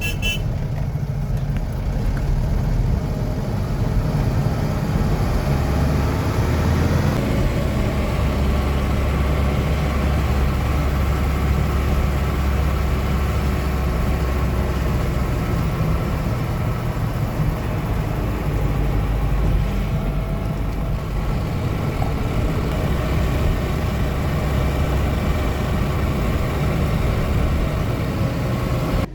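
A motor vehicle's engine running steadily while driving, with road rumble underneath.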